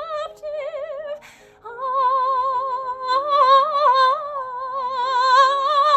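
A woman singing solo in a high soprano with wide vibrato. She finishes the word "adaptive", takes an audible breath about a second in, then holds one long note that lifts slightly partway through.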